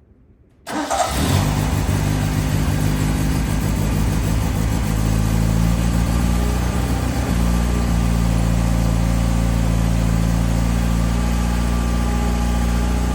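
1984 Morgan 4/4's four-cylinder engine starting from cold on half choke: it fires suddenly under a second in and settles into a steady idle.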